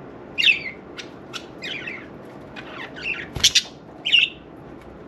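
Budgerigars chirping and squawking: a string of about eight short, quick calls, the loudest about three and a half seconds in.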